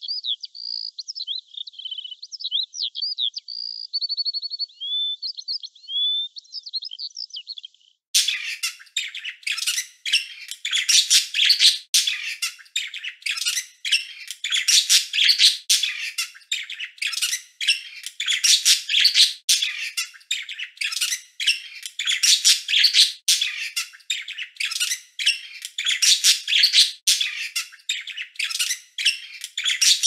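Recorded birdsong: for about eight seconds a varied song of high chirps, a short trill and rising whistles, then an abrupt change to louder, dense, fast chirping that continues to the end.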